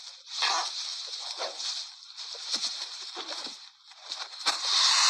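Scuffling and scraping of two male Sarada lizards fighting: a string of short rasping bursts, then a longer, louder hiss of scuffling near the end.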